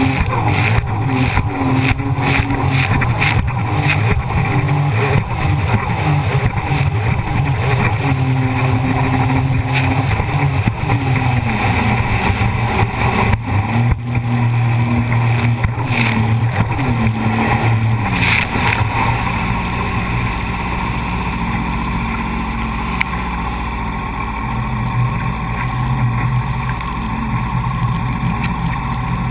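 Jet ski engine running hard, its pitch rising and falling again and again as the throttle is worked, with frequent short knocks and buffeting over it; about 19 seconds in it settles to a steadier, lower note.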